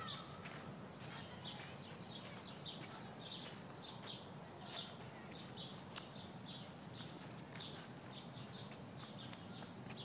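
A small bird chirping over and over: faint short, high notes, about one or two a second. Footsteps on grass and dirt sound now and then.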